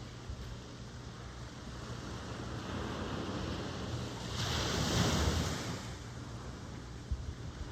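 Ocean surf: a wave swells and breaks about four to five seconds in, its hiss loudest then, and washes back down, over a steady low rumble of wind on the microphone.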